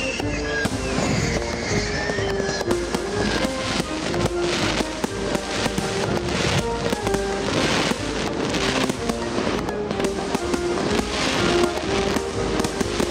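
Aerial fireworks going off in a rapid run of sharp pops and bangs, over added background music with held notes.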